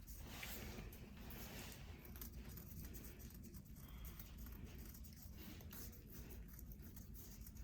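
Faint, quick scraping strokes of an instrument paring dry, hard callused skin on a foot.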